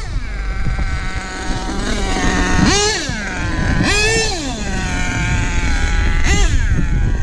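Small nitro RC engine (HPI Nitro Star .25 in a Savage 25 monster truck) running with a high, buzzing note, sagging in pitch, then revved in three quick throttle blips that rise and fall, around three, four and six seconds in. A low rumble of wind or rolling runs underneath.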